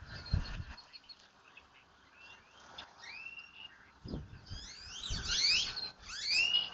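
Small birds chirping, a flurry of quick rising and falling high whistles that grows busiest in the last two seconds. Short low rumbles of wind on the microphone come through at the start and several times after.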